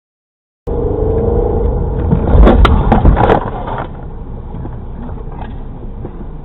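Vehicle road and engine rumble recorded on a dashcam, starting abruptly. About two seconds in comes a loud burst of bangs and clatter lasting about a second, then steady, quieter road noise.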